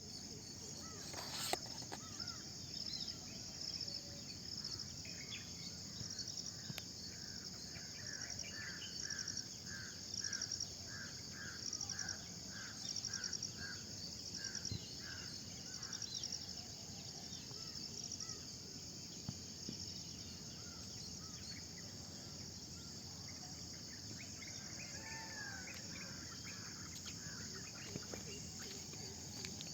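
Early-morning chorus of insects and birds. Insects keep up a steady high-pitched trill, with rhythmic pulsing chirps in it. A bird repeats one note about twice a second for some ten seconds, and other birds give gliding calls later on.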